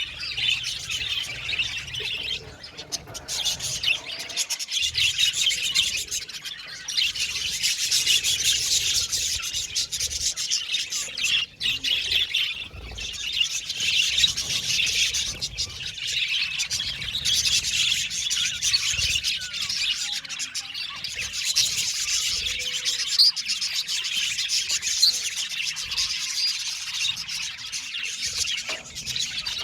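A colony of budgerigars chattering and chirping, many birds calling over one another without a break.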